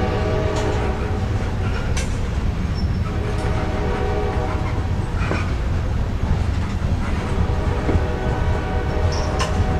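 Loaded grain-train covered hopper cars rolling past, a steady rumble of steel wheels on rail with a few sharp clanks. A sustained multi-tone horn, the lead locomotive's K5LA, sounds through the first second and again from about seven seconds in.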